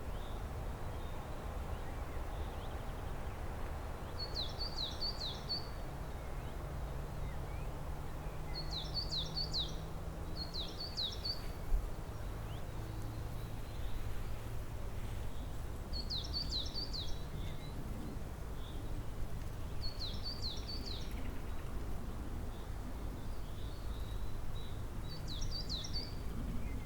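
A songbird repeating a short phrase of three or four quick, high, downward-sliding notes, one phrase every few seconds, six times in all. Under it runs a steady low rumble of background noise.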